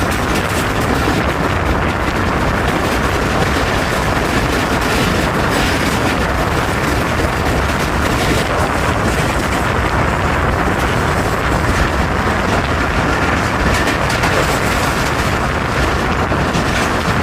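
A train running past with a loud, steady rumble and rattle.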